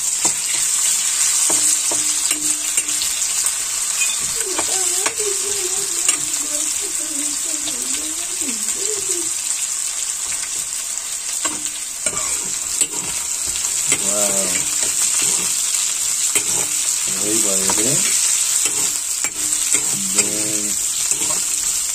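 Chicken pieces and sliced onion sizzling in oil in a wok on a gas stove, with a steady hiss. A metal spoon stirs and scrapes them, giving frequent light scrapes and taps against the pan.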